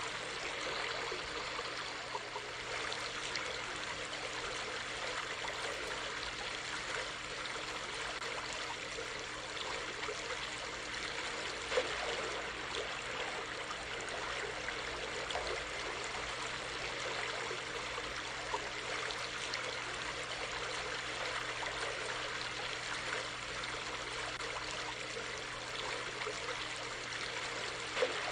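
A small stream running, a steady rush of flowing water. It is louder for a moment twice, once about halfway through and once near the end.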